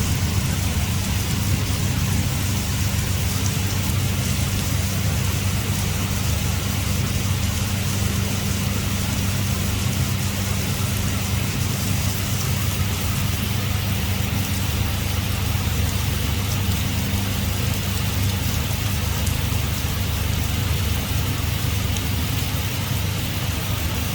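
Heavy rain pouring down steadily, with a steady low hum underneath.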